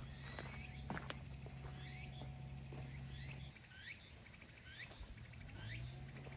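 A small animal chirping over and over, short hooked calls about twice a second, over a low steady hum that cuts out about halfway through and comes back near the end. A couple of sharp clicks about a second in.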